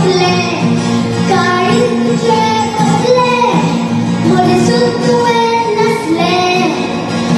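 A young girl singing a melody in a clear voice over musical accompaniment.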